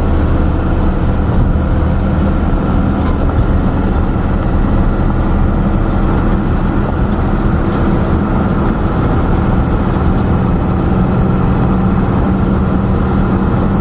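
Steady engine hum and road noise of a big truck driving, heard from inside the cab.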